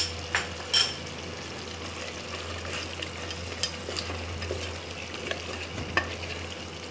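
Wooden spatula stirring mutton and garlic paste frying in a pressure cooker, with a low sizzle and two sharp knocks of the spatula on the pot in the first second, over a steady low hum.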